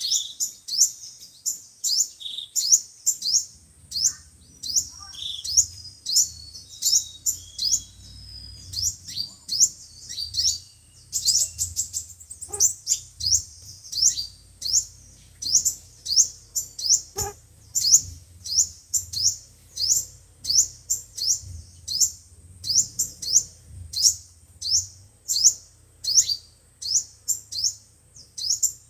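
Sunbird calls: high, sharp chirps, each a quick downward sweep, repeating rapidly at about two a second.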